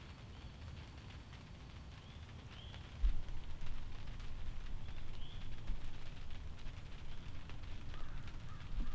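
Outdoor ambience: a bird giving short, high chirps a few times at intervals over a low rumble that grows louder about three seconds in.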